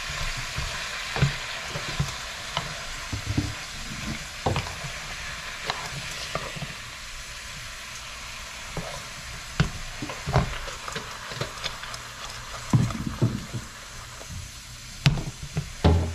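Mustard greens (rayo saag) and pieces of pork sukuti sizzling in hot oil in a frying pan, stirred and tossed with a wooden spatula. Short knocks of the spatula against the pan come now and then, louder ones in the second half.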